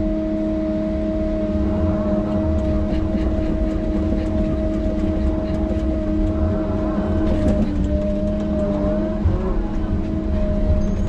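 Heavy tracked machine's diesel engine running steadily under load with a steady whine, while it pushes dirt; metal clanks and rattles come in the middle, and the engine note sags briefly about eight seconds in before recovering.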